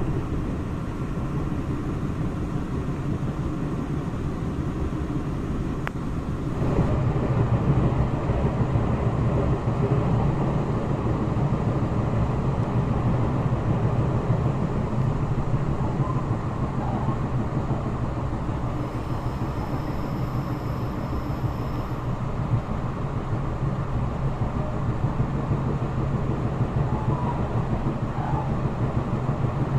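Train running on rails, a steady rumble that grows louder about seven seconds in.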